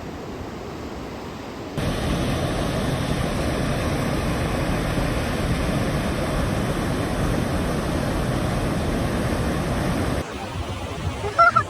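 Steady rushing of flowing water, as of a river or waterfall in a gorge. It gets louder abruptly about two seconds in and drops back shortly before the end.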